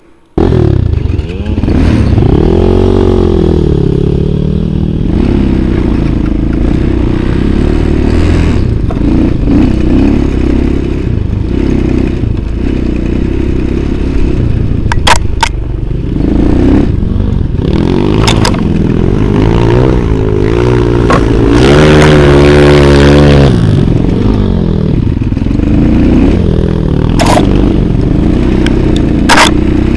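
Off-road vehicle engine running up close, revving up and down again and again as it is ridden through soft, churned-up snow. It cuts in suddenly about half a second in, with a few sharp knocks along the way.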